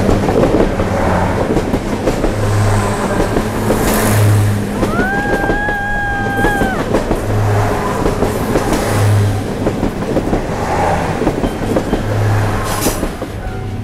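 Taiwan Railways Chu-Kuang express passenger carriages rolling past close by: a continuous rumble with a low, recurring clatter from the wheels. A single steady high tone sounds for about a second and a half midway.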